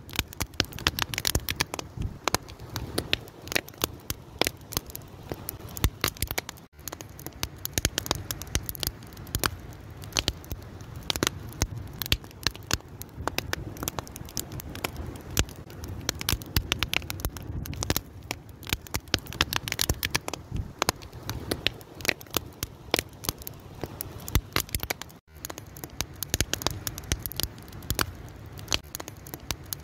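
Wood fire burning: dense, irregular crackling and popping over a low steady rumble of flames.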